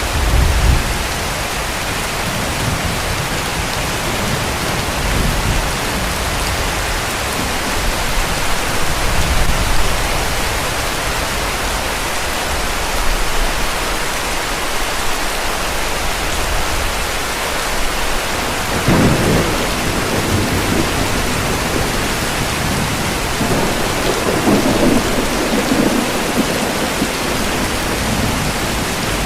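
Heavy rain falling steadily, with distant thunder rumbling low several times: near the start, about a third of the way in, and twice in the second half.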